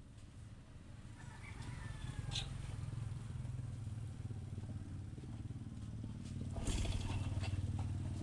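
Honda XRM 110's small single-cylinder four-stroke engine running steadily at idle after restoration. It grows louder about a second or two in and picks up briefly about three-quarters of the way through.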